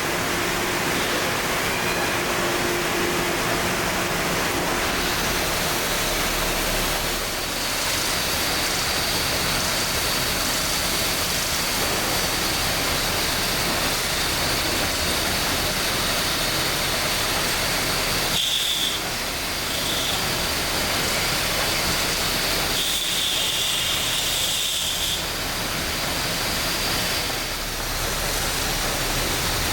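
Steady noise of factory machinery running, with a faint high whine that comes in after a few seconds and breaks off now and then.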